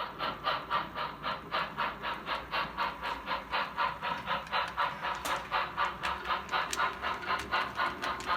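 Sound system of a model consolidation (2-8-0) steam locomotive chuffing steadily at about four chuffs a second as it runs.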